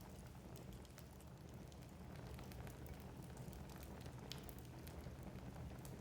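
Wood fire burning in a fireplace: irregular small crackles and pops over a low, steady rumble of the flames, with one sharper pop about four seconds in.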